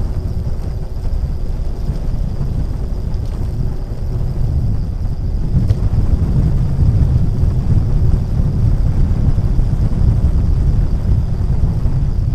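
Wind buffeting the microphone: a gusty low rumble that grows louder about halfway through.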